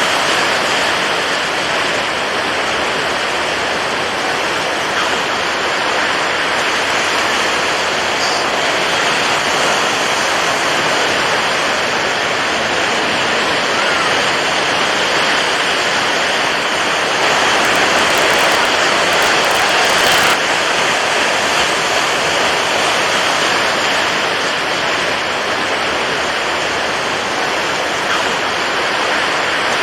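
Steady rushing sound of water waves, an even, continuous wash that swells a little louder for a few seconds past the middle.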